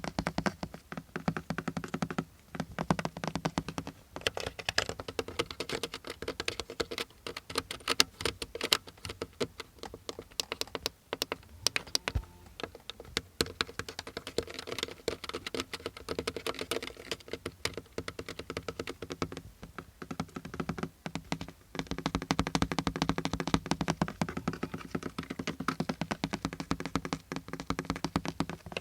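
Rapid tapping on a car's surfaces, a dense run of quick light clicks. In some stretches, around the start and again in the last third, the taps carry a low hollow ring.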